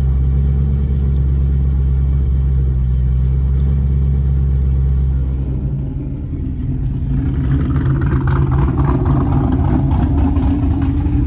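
Chevrolet Camaro SS V8 idling steadily, heard from inside the cabin. About halfway through the sound changes to a rougher, more open engine idle, with a second Camaro idling alongside.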